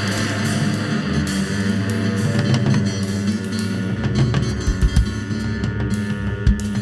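Live rock band playing an instrumental passage: drum kit with cymbals, electric guitar and upright bass. Heavy low bass notes come in about four seconds in, with strong kick-drum hits.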